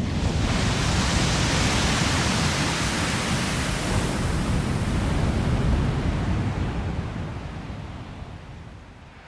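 A steady, even rushing noise that fades out over the last few seconds.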